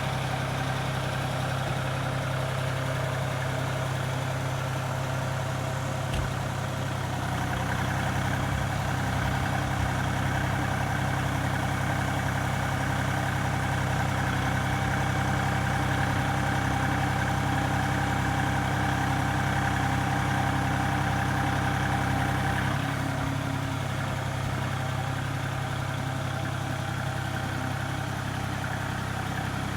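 Engine running steadily at idle. For a long stretch in the middle its sound grows fuller and a higher whine joins in, then it settles back to idle.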